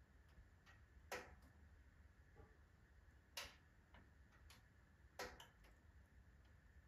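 Firewood burning in a wood stove: faint crackling with scattered small ticks and three louder pops, about one, three and a half, and five seconds in.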